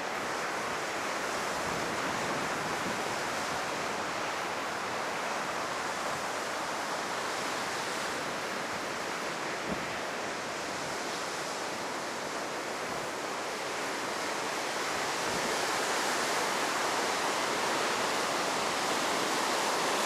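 Heavy ocean surf breaking and washing up a sandy beach, whipped up by a passing typhoon: a steady rush of surf that swells louder over the last few seconds.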